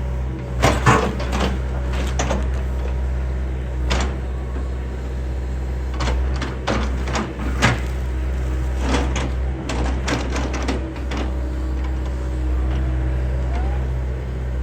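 John Deere excavator's diesel engine running steadily while it tears into a wooden house, with repeated cracks, knocks and splintering of breaking timber; the loudest cracks come about a second in and again near the middle.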